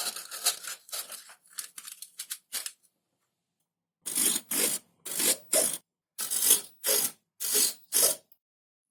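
Short scraping strokes of hand work on foam. First comes a quick, irregular cluster, then after a pause about seven separate strokes, each roughly half a second long.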